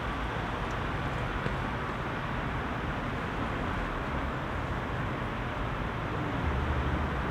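Heavy city traffic at rush hour: a steady wash of car engines and tyre noise, with a deeper rumble from a larger vehicle passing near the end.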